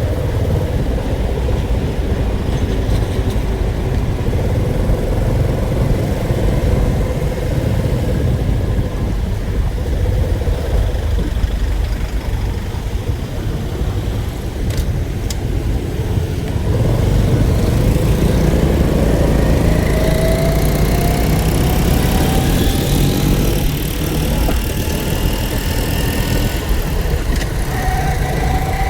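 Motor vehicle engine running with a steady low rumble. From about halfway through, its pitch climbs slowly and steadily as it speeds up.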